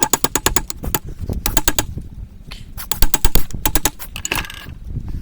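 Hand hammer striking a hot railroad spike on an anvil in quick runs of light blows, about ten a second, in three bursts; the loudest run comes about three seconds in.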